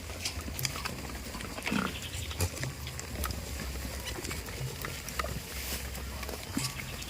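Farm goats moving about: a brief low animal call about two seconds in, with scattered clicks and knocks over a steady low hum.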